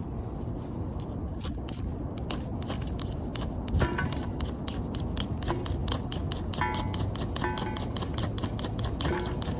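Small wood fire crackling in a fire stand made from a charcoal chimney starter: sharp pops and snaps several times a second over a steady low rumble, with a few brief thin whistling tones.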